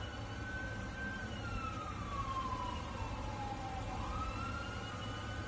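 Dam water-release warning siren wailing faintly: it rises, holds, slides slowly down, then rises again. It warns that floodgates are opening, so that people in the river get out of the water. A steady low rumble runs underneath.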